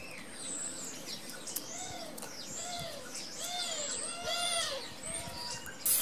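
Birds chirping and calling: a run of short, repeated arched calls. A sharp click comes near the end.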